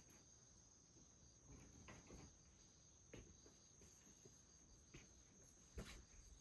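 Faint insect song, a continuous thin high trill like crickets, over a quiet background with scattered soft taps; a couple of louder footfalls or knocks come near the end.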